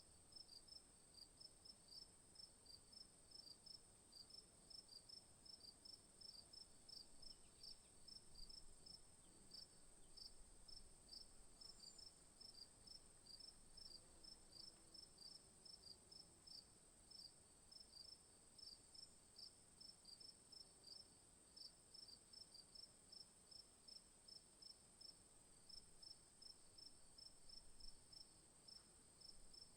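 Faint insect chorus: a high-pitched chirp repeating evenly, two to three times a second, over a continuous high, steady hum.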